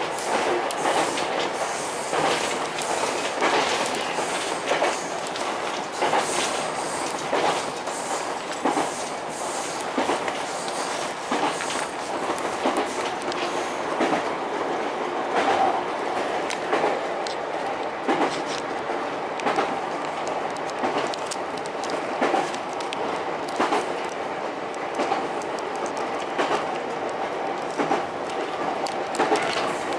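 Ichibata Electric Railway 7000 series electric railcar running at line speed, heard from inside the car: a steady rumble with repeated sharp clicks as the wheels pass over rail joints.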